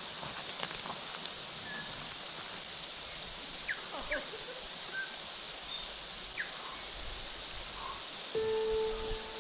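Loud, steady high-pitched chorus of cicadas, with a few short bird chirps in the middle. A held musical note comes in near the end.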